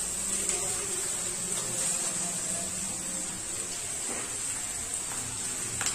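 Faint steady hiss of vegetables frying in a steel kadhai as cooked rice is tipped in from a steel colander, with two soft taps about four and six seconds in.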